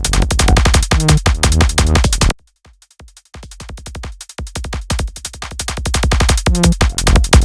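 Electronic dance music with a fast drum-machine beat. It cuts out suddenly a little over two seconds in, then returns sparse and quiet and builds back to full level.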